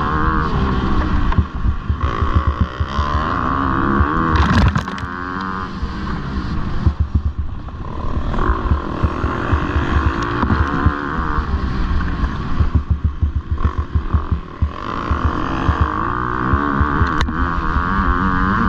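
Motocross dirt bikes racing, engines revving up and down as the riders work the throttle, with stretches of rapid stuttering on and off the gas. A sharp burst sounds about four and a half seconds in and another briefly near the end.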